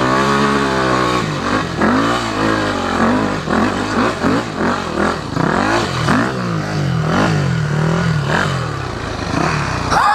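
Yamaha WR400 four-stroke single-cylinder dirt bike engine held at high revs, then revving up and down over and over as the throttle is worked on a steep hill climb.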